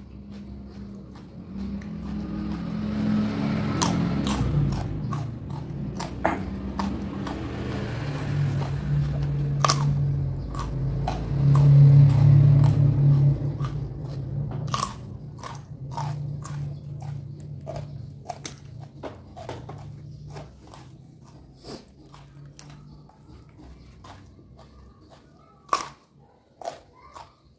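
A person chewing close to the microphone, with many crisp crunches of raw vegetables over a low humming sound that is loudest around the middle; the chewing grows sparser near the end.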